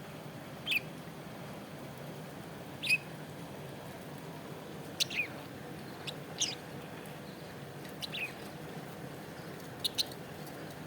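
Small pet parrot giving short, high chirps that fall in pitch, about six of them a second or two apart, some in quick pairs, over a steady low hum.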